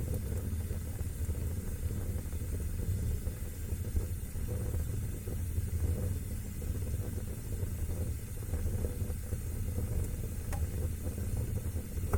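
Wood fire burning in a fireplace: a steady low rush of flames with a few faint crackles, one of them near the end.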